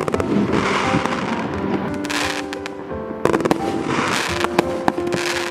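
Fireworks cake, the 'Thank You' 47-shot, firing shots in quick succession: sharp bangs and swells of crackle as the shells burst into glittering stars, with background music over it.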